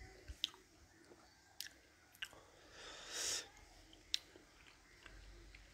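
Quiet mouth sounds of a man eating a chilli gummy bear: soft, wet clicks of chewing and sucking on the sweet, with a breath blown out about three seconds in.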